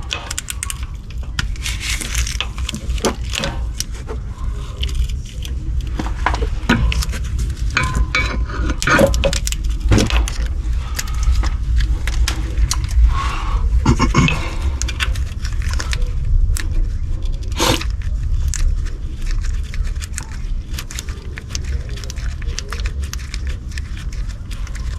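Metal hand tools clinking and scraping against engine parts while bolts are worked loose, as irregular clicks and knocks over a steady low rumble.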